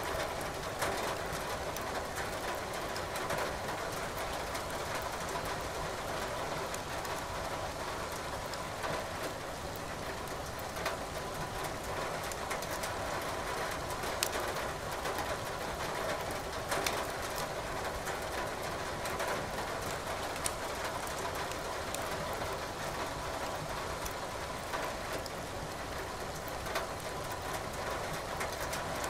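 Wood fire crackling in a fireplace over steady rain, with a few sharp pops scattered through.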